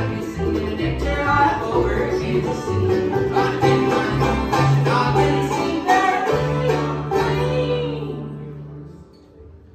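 Bluegrass band playing live, a banjo picking over guitar and a bass line; the tune winds down about eight seconds in and its last notes ring out.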